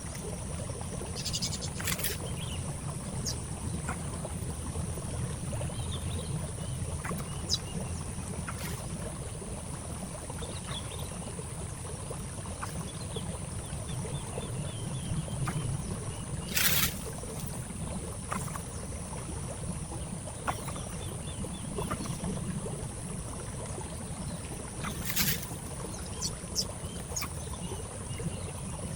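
Steady low wind rumble on the microphone with a constant thin high-pitched hum, faint scattered bird chirps, and a few sharp clicks.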